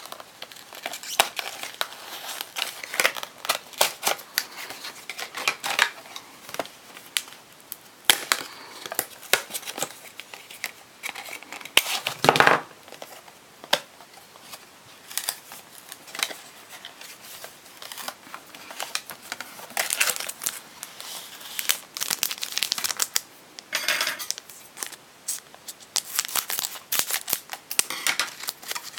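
Foil Pokémon card booster pack wrappers being torn open and crinkled by hand, an irregular run of short crackling rustles and tears. One louder short burst comes about twelve seconds in.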